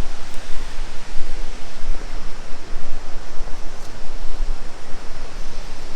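Steady rushing noise of the Sekumpul waterfall's falling water: an even hiss with a low rumble underneath.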